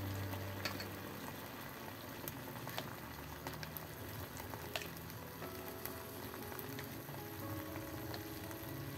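Green beans and tofu sizzling steadily in sauce in a wok as they stir-fry, with a few faint clicks.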